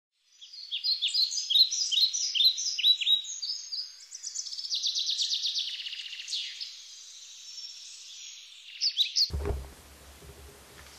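Birds chirping: quick, repeated downward-sweeping chirps and a fast trill. The birdsong cuts off suddenly about nine seconds in, giving way to faint room noise and a low thump.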